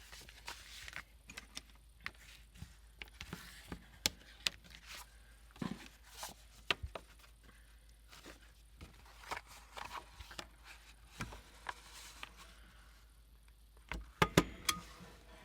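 Hands working with paper and small craft items on a work table: scattered light taps, clicks and rustles, with a cluster of louder knocks near the end.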